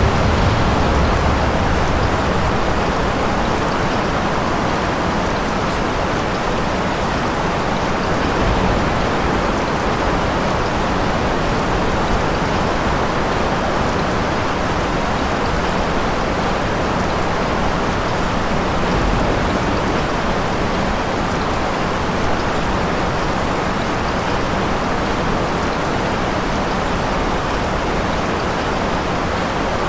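Steady rain, an even hiss and patter throughout, with a few brief low rumbles of thunder: about a second in, around nine seconds and around nineteen seconds.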